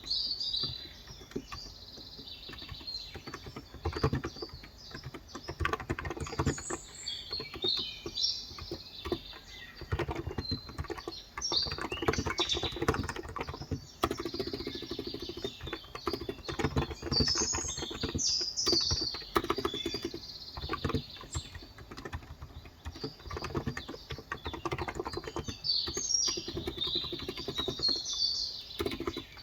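Steady typing on a Cox Endeavor electro-capacitive (Topre-style) tenkeyless keyboard with light 35 g switches, keystrokes clicking continuously. Birds chirp in the background now and then.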